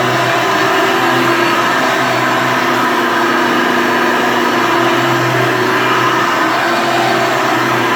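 Hoover Elite vacuum cleaner running continuously. Its motor hum shifts slightly in pitch a few times as it works over the floor.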